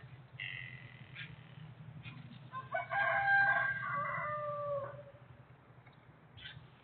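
A bird calling: a short high note about half a second in, then one long call of several linked syllables, ending on a drawn-out falling note.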